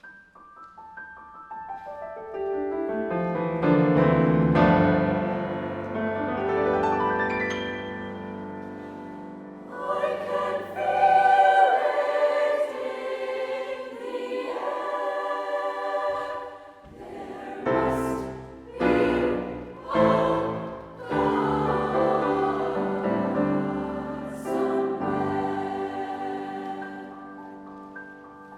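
Choir singing a sustained, swelling passage. Several sharp struck accents come in the latter half, and the singing fades toward the end.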